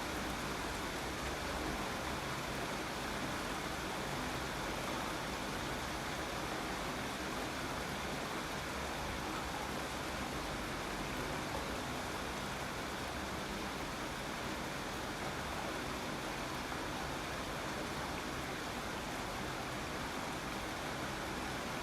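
Steady rain falling: an even, continuous hiss with no separate drops or changes.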